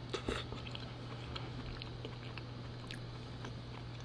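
Close-miked chewing: a person eating a forkful of food, with sharp wet mouth clicks near the start and scattered smaller ones after. A steady low hum runs underneath.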